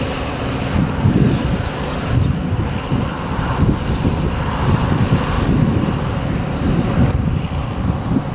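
Farm tractor engine running steadily under heavy wind buffeting on the microphone, which gives a gusty, fluttering low rumble.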